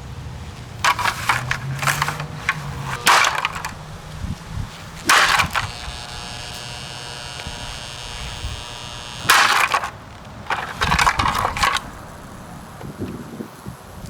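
Kaz evaporative humidifier being smashed: about six separate crashes of cracking, breaking plastic, with pauses between the blows.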